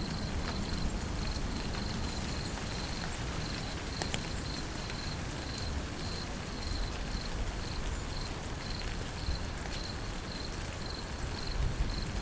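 Steady rain falling, with a low rumble underneath and an insect chirping in an even, high-pitched pulse about twice a second.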